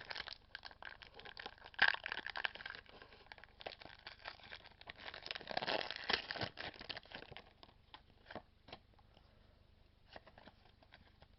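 Foil wrapper of a Pokémon TCG XY Phantom Forces booster pack being torn open and crinkled: a dense run of crackling and tearing, loudest about six seconds in. It thins out after about seven seconds into scattered clicks as the cards are handled.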